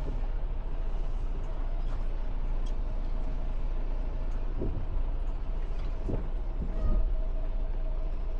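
Semi truck's diesel engine running steadily at low speed, heard from inside the cab, with a few short low thuds partway through.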